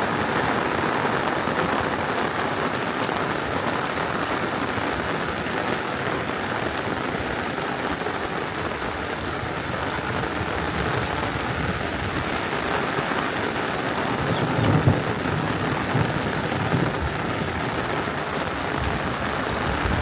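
Heavy rain falling steadily, with a brief low thump about fifteen seconds in.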